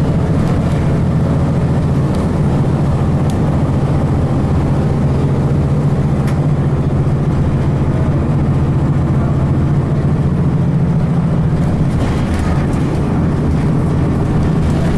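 Cummins ISC straight-six diesel engine of a 2002 Blue Bird transit bus running steadily, heard from on board during a ride, with a couple of faint ticks.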